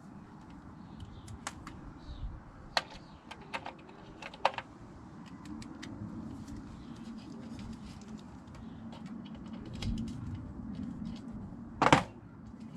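Scattered light clicks and taps of small metal parts and tools being handled during fitting work, with a sharper double knock near the end, over a faint low hum.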